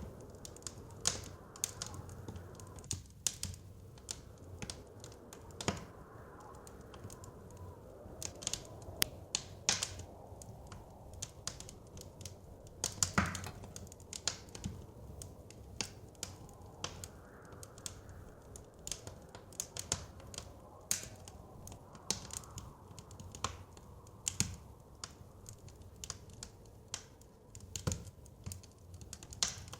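Wood fire crackling: irregular sharp pops and snaps, several a second at times, the loudest about 13 seconds in. Under it runs a soft, steady low rush of blizzard wind.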